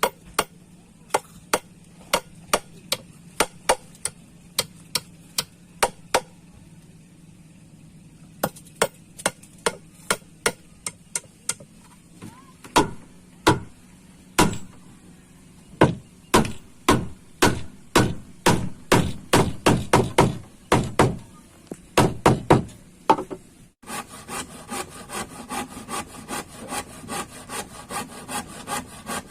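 Hammer driving nails into wood: a long series of sharp blows, about two or three a second, with a short pause partway through. After an abrupt cut near the end, a saw cuts wood in quick, even strokes.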